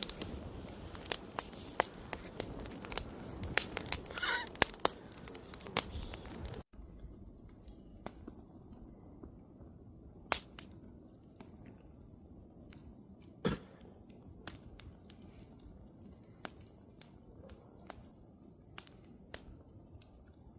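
Wood fire crackling, with frequent sharp pops from the burning wood. About seven seconds in it drops suddenly to a quieter crackle with only occasional pops.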